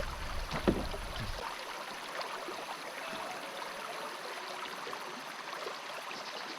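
Steady hiss of running river water, with a short knock just under a second in.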